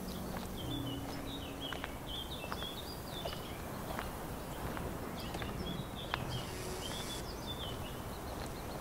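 Small birds chirping in two spells of quick high notes over a steady outdoor background hiss, with a few faint taps.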